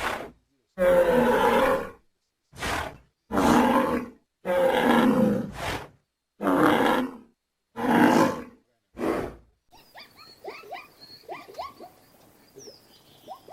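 A large wild animal roaring about seven times in short, separate calls. In the last few seconds these give way to faint, rapid, high-pitched squeaks.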